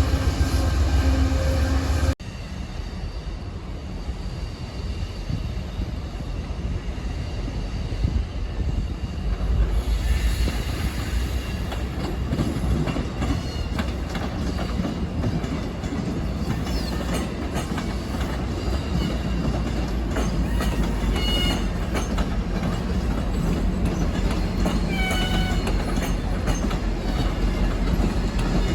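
Railcars rolling past with a steady rumble and wheels clicking over rail joints, and short wheel squeals about two-thirds of the way through and again near the end. At the start, a loud steady drone cuts off sharply about two seconds in.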